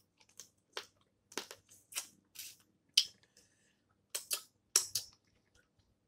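Snow crab shells being cracked and snapped open by hand: about ten sharp, short cracks and clicks at irregular intervals.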